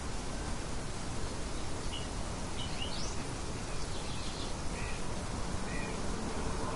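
Birds chirping in short, scattered calls, one of them a quick rising note, over a steady rush of light wind.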